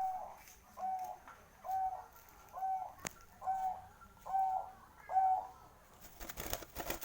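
Zebra dove (Bangkok perkutut) cooing: a run of seven short, evenly spaced coos, a little under one a second, with a single sharp click midway. A rustling, crackling noise starts in the last second.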